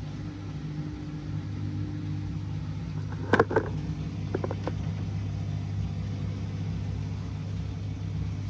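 Washing machine drain pump running with a steady hum, pumping the remaining water out through the waste pipe. A few short clicks come about three and a half and four and a half seconds in.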